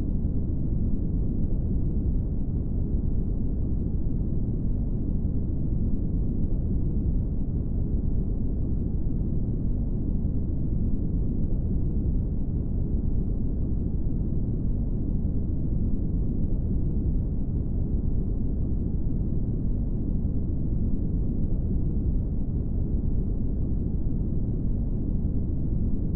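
Brown noise: a steady, even low rumbling hiss with no changes, its energy sitting mostly in the low range.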